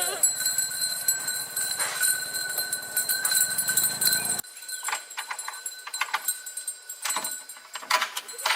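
Goats' hooves clattering and knocking irregularly as the goats are led up onto a vehicle, over a steady high hum in the first half.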